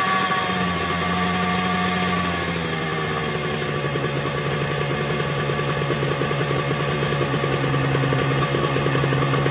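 A 1975 Yamaha RD350's air-cooled two-stroke twin is running at a fast idle on choke just after a cold start. Its speed eases down over the first couple of seconds and then holds steady. The idle is running high.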